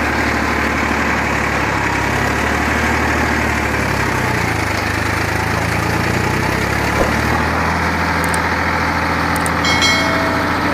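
Swaraj 960 FE tractor's diesel engine idling, a steady low drone whose pitch shifts slightly a couple of times.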